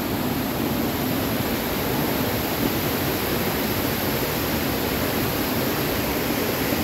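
Waterfall's falling water making a steady, loud rush.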